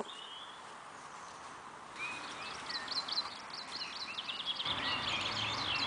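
Small birds chirping, starting about two seconds in and turning into a quick run of high notes in the last couple of seconds, over a faint outdoor hiss. A low steady hum joins near the end.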